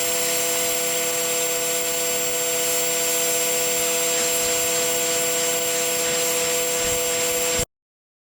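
Pressure washer running steadily, its machine hum and a few steady tones under the hiss of the high-pressure spray; it cuts off suddenly near the end.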